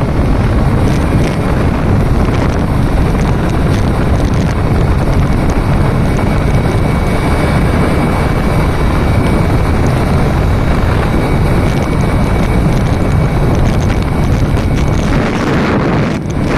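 Loud, steady wind buffeting the microphone, a dense low rumble, with a faint high steady whine running under it.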